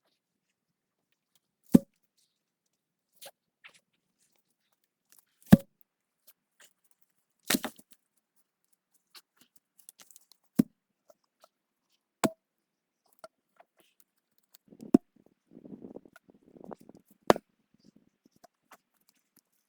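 A hand tool striking wood: about seven sharp, separate blows spaced roughly two seconds apart, with some fainter scuffing between the last few.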